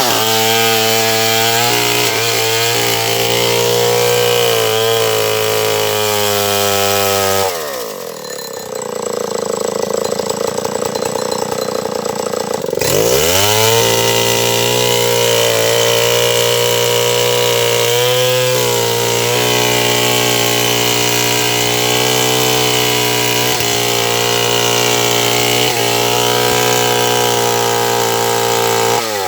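Stihl 070 two-stroke chainsaw running hard while sawing sengon wood. About a third of the way in the engine note changes and dips for several seconds, then sweeps back up into steady cutting.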